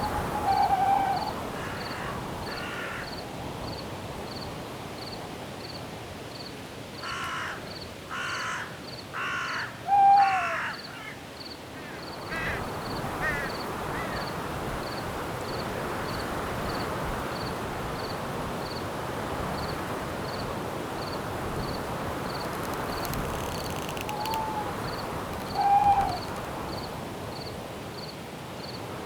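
Night forest ambience: wind noise in the trees, growing fuller partway through, with a cricket chirping steadily about twice a second. A crow caws four times a few seconds in, and short low owl hoots come a few times, the loudest near the start, around ten seconds and near the end.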